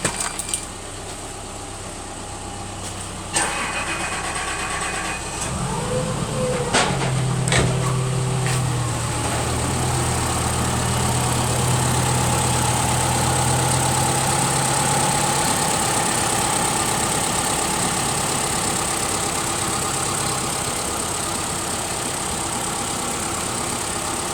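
Subaru Forester's flat-four boxer engine starting up a few seconds in, with a few clicks, then idling steadily, its idle settling slightly lower in pitch in the second half.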